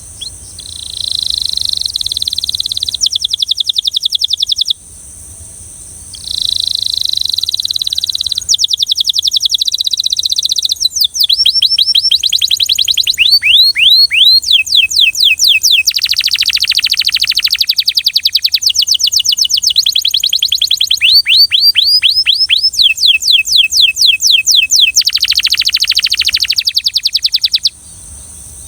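Belgian canary singing: a short phrase of a held note breaking into a fast trill, a brief pause about five seconds in, then a long unbroken run of rolling trills and rapidly repeated notes, with quick downward-sweeping notes in the middle. The song stops about a second before the end.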